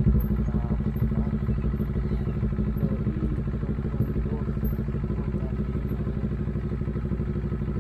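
CFMoto 400NK motorcycle's parallel-twin engine running steadily at low speed as the bike rolls slowly, a constant low note with no revving.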